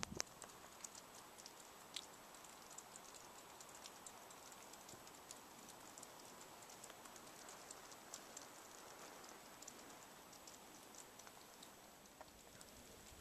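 Near silence: a faint hiss with many light, irregular ticks, one a little stronger about two seconds in.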